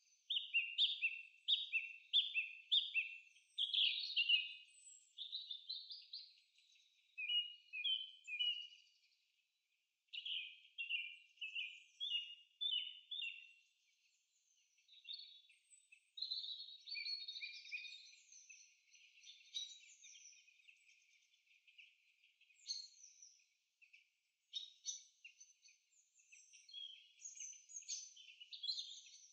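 Birdsong: phrases of short, high chirps repeated about two a second, breaking off into brief pauses and starting again.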